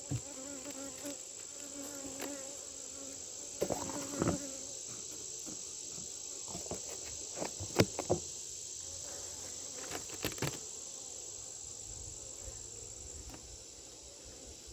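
Honeybees buzzing around an open hive, one flying close with a wavering drone in the first few seconds, over a steady high-pitched insect trill. Several sharp knocks and clicks come in the middle, the loudest about eight seconds in.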